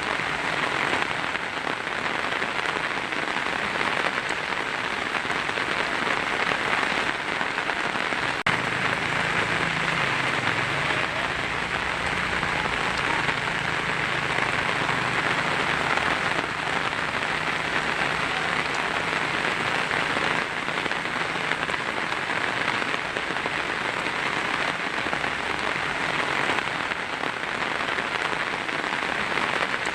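Heavy rain falling steadily on a tin roof, a dense even patter. A faint low rumble sits underneath through the middle.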